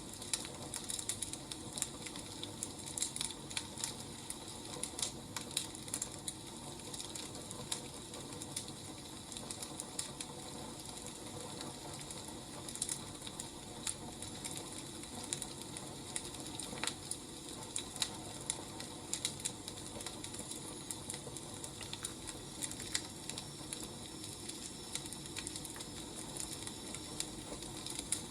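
Burning firewood crackling: a steady low hiss with irregular sharp pops and snaps.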